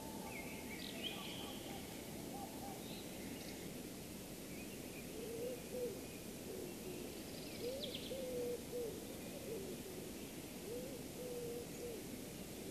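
Low, wavering hoot-like bird calls repeated several times from about five seconds in, over a steady outdoor hiss, with a few high chirps in the first seconds.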